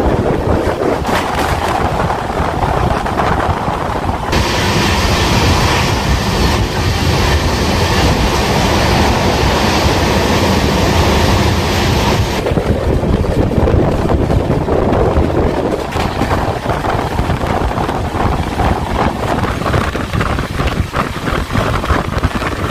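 Shantiniketan Express passenger train running at speed, heard from on board: a steady rumble of wheels on the track with rushing air. A harsher hiss comes in about four seconds in and drops away about twelve seconds in.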